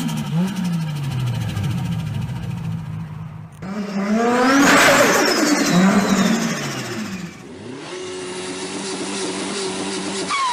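Turbocharged car engines revving in short back-to-back clips: one rev climbs to a peak about five seconds in, then on lift-off a high turbo whistle falls away with turbo flutter, and the engine settles to a steady idle near the end.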